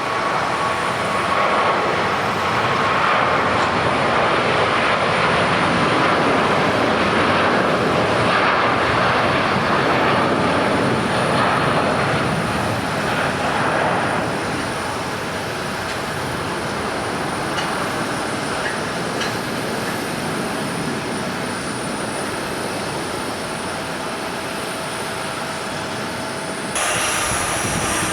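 Jet airliner engines passing close by, a loud wash of engine noise that is loudest in the first half and then eases off. It changes abruptly shortly before the end.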